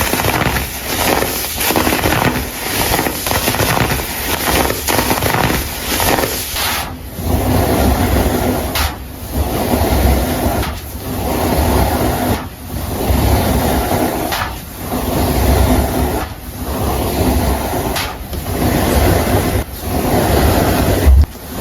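Dry baking soda crumble crunching and crackling densely for the first several seconds. About seven seconds in it gives way to loose powder being worked in slow, even strokes: a soft gritty swish with a low rumble about every two seconds.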